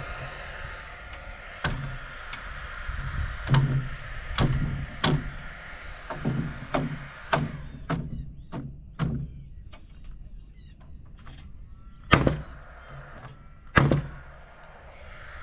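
Hammer driving nails into wooden framing: about a dozen sharp blows, coming quickly through the middle, then two heavier blows near the end.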